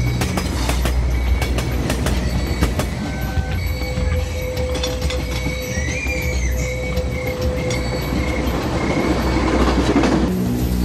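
Passenger train running past: wheels clicking and rumbling on the rails, with a thin wheel squeal in the middle stretch and the noise swelling near the end. Background music comes back in just before the end.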